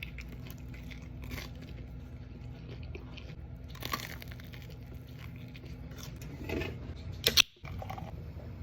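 Close-miked eating: a person chewing and crunching food, with scattered crisp bites and the sharpest crunch about seven seconds in.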